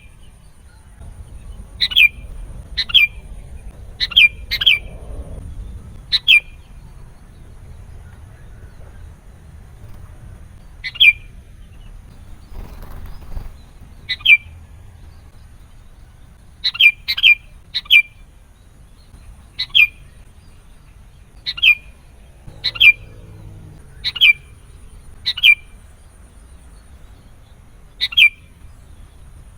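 Sooty-headed bulbul giving short, sharp calls, each a quick falling note, repeated irregularly every second or two and sometimes in quick pairs. This is the bird's lively 'gacor' calling, used as a lure.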